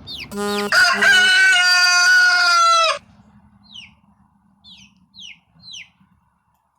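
A rooster crows once, a loud call about three seconds long that cuts off abruptly. Then come a few short, high, falling peeps from young chickens.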